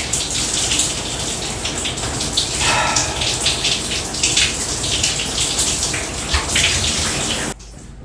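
Hibbent rainfall shower set running: water pouring from the shower heads and splashing in the shower, a steady hiss that cuts off abruptly near the end.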